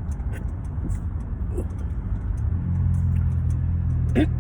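A car engine running with a low rumble, with a deeper, heavier engine hum coming in about halfway through as a rough-running car draws near. The car sounds like it's gonna fall apart.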